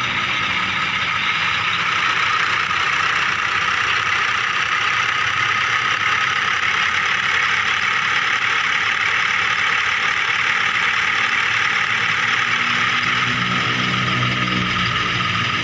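Remote-control miniature toy vehicle running: a steady whirring of small motors and gears, with a lower hum that comes in again a couple of seconds before the end.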